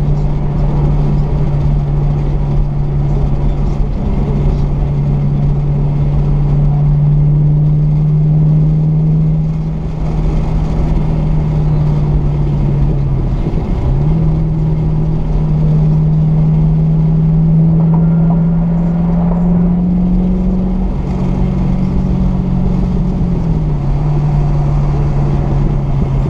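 Fifth-generation Chevrolet Camaro engine droning steadily while the car is driven, its pitch slowly rising with speed. The pitch dips briefly about halfway through and falls again near the end, over a low road rumble.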